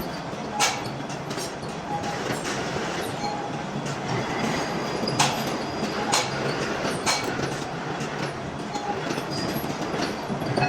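Heavy machine-shop machinery running with a steady rumble, broken by sharp knocks at irregular intervals.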